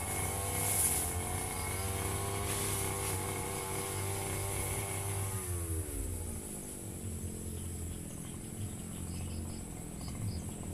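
Firman FGB 528 two-stroke brush cutter engine running at steady high speed, then its pitch falls away over about a second as the throttle is released, leaving it running slow and quieter. Faint insect chirps near the end.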